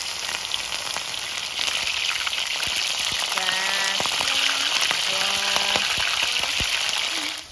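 Battered mushrooms deep-frying in hot oil: a steady, loud sizzle, with a few clicks of metal tongs against the pan as the pieces are turned. Two short, steady low tones sound in the middle, and the sizzle drops away sharply just before the end.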